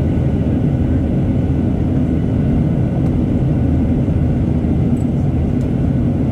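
Boeing 737-800 with its CFM56 turbofan engines in flight, a steady low rumble of engine and airflow noise that does not change, as heard from inside the cabin.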